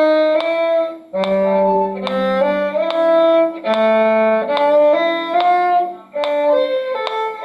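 Violin playing a quick, lively melody over a second, lower string part, a string duet; the phrases break off briefly twice.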